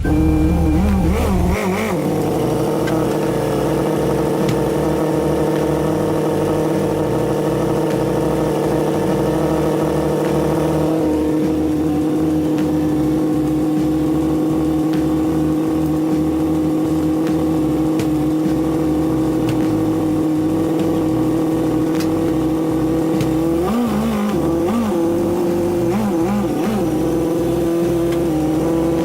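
Toyota AE86 Sprinter Trueno's engine running at steady revs while the car is driven, with a small change in pitch about eleven seconds in.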